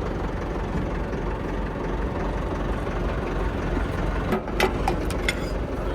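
Tractor diesel engine idling steadily, with a few sharp metallic clicks about four to five seconds in.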